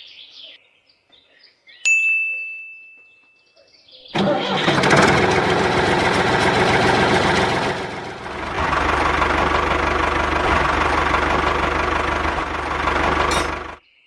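A motor starts suddenly and runs loudly for nearly ten seconds, then cuts off abruptly near the end; a deeper rumble joins about halfway through. A single ringing tone sounds shortly before it starts.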